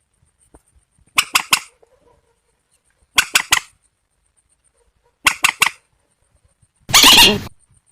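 Calls of rails, the swamphen and white-breasted waterhen, played from a recording. Harsh three-note calls repeat about every two seconds, then one longer rasping call comes near the end.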